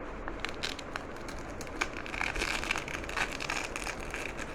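Nylon pouch being handled, with quick clicks and then a raspy crackling as its velcro closure is pulled apart, from about two seconds in.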